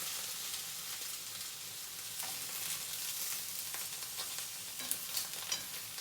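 Eggplant frying in oil in a pan, a steady sizzle, with a few sharp clicks near the end.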